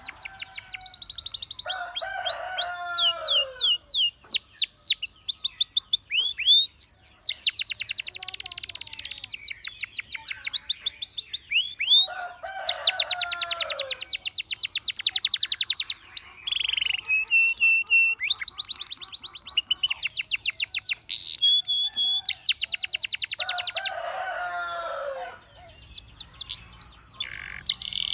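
Canary song: long, rapid trills and rolling runs of repeated high notes, broken by short pauses. A lower, falling phrase cuts in three times, about ten seconds apart.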